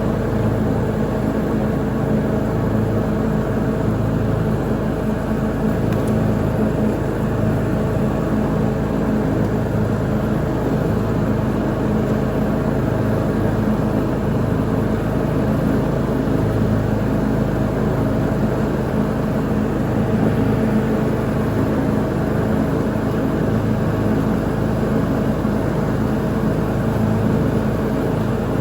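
Lawn mower engine running steadily under mowing load, at an even, unchanging pitch.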